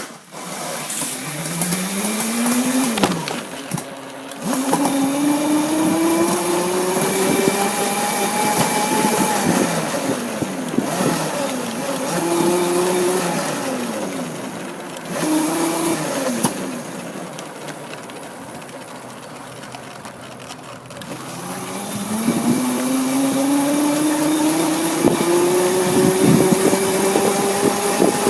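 Motorcycle engine accelerating through the gears, its pitch climbing steadily and dropping at each shift. It backs off and slows in the middle with a few short blips of the throttle, then pulls up through the gears again near the end.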